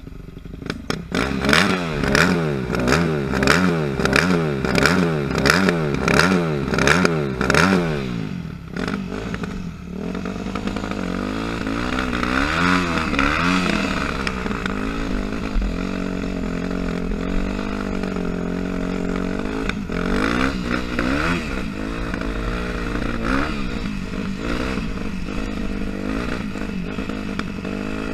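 Yamaha YZ dirt bike engine revved up and down in quick blips about once a second for the first eight seconds, then running on at a steadier, wavering pitch with a few more swells of revs.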